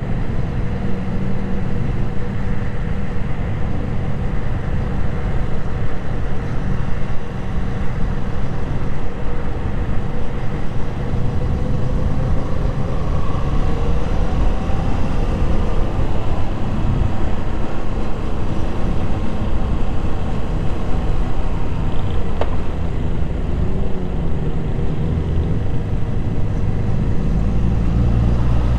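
Motorcycle engine running steadily while riding, with road and wind noise, the engine pitch rising and falling a little in the middle.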